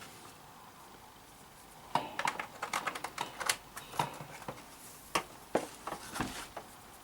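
Quiet for about two seconds, then a run of small irregular clicks and knocks as hard plastic equipment and cables are handled.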